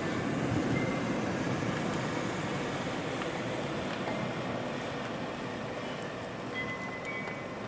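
Steady rain under a low, rolling rumble of distant thunder that slowly fades. Faint wind-chime notes come in near the end.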